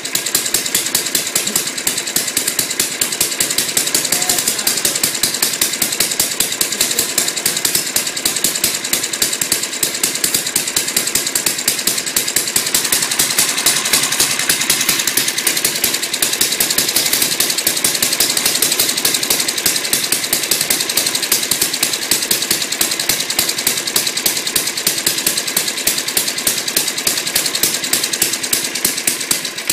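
Small lawnmower engine running steadily, a fast, even stream of firing pulses. The owners suspect the carburettor is either getting too much gas or is still dirty.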